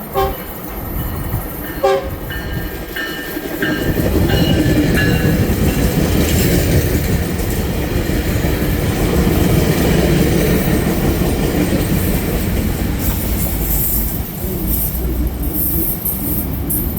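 A train horn sounds two short blasts, then a passing train runs by with a loud, heavy rumble and rapid wheel clatter over the rail joints near the end.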